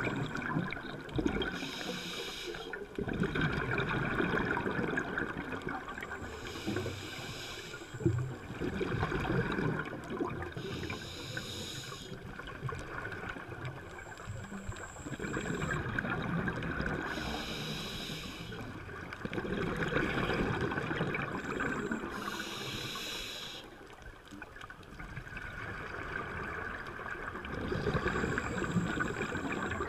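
Scuba diver breathing through a regulator underwater. Each breath is a short hiss on the inhale, followed by a longer gurgling rush of exhaled bubbles, about one breath every four to five seconds.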